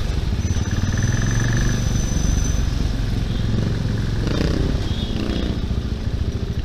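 Bristol Classic 400i motorcycle engine running steadily while riding.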